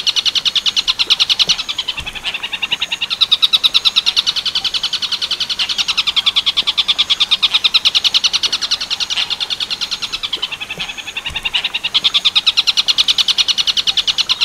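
Tengkek buto bird calling in its 'Werkudoro' style: a fast, continuous rattle of repeated high notes in long phrases, with brief dips between phrases.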